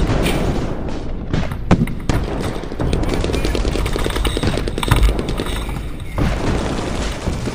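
Airsoft guns firing, with single sharp pops and a fast burst of rapid pops about three seconds in, over a constant low rumble.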